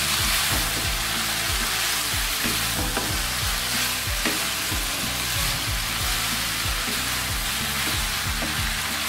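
Vermicelli with peas and potatoes sizzling in a nonstick frying pan as a wooden spatula stirs and tosses it, with a few light knocks of the spatula against the pan.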